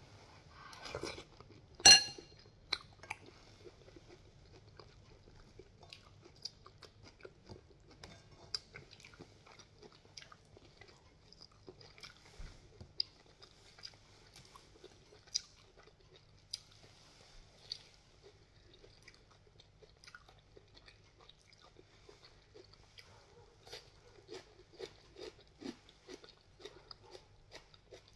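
A person chewing and eating soft noodle soup with sponge gourd, with many small mouth clicks throughout. About two seconds in, a single sharp ringing clink of a spoon against the glass bowl.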